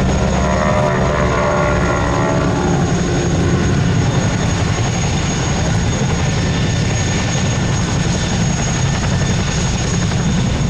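Boeing Stearman biplanes' 450 hp radial engines and propellers running at display power as they fly past. The engine note falls in pitch over the first three seconds or so, then settles into a steady drone.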